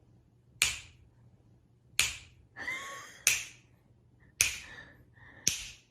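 Five sharp slaps or knocks, about a second apart, each dying away quickly.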